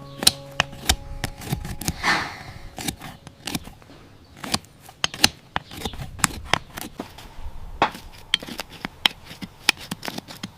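Cow hoof being trimmed: many irregular sharp snips and cuts into the hoof horn, with a longer scraping stroke about two seconds in.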